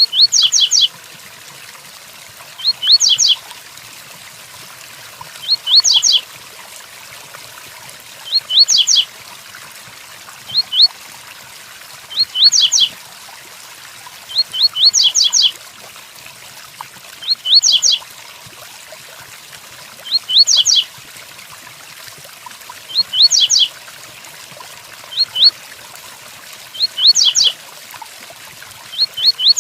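Double-collared seedeater (coleiro) singing the 'tui-tuí' song: short phrases of a few quick, high, upward-sweeping notes, repeated about every two and a half to three seconds, over a steady hiss of rain.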